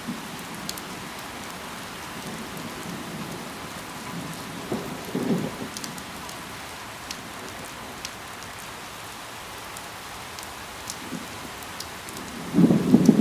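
Steady rain, with scattered sharp drip ticks. A louder low rumbling burst comes about five seconds in, and a stronger one near the end.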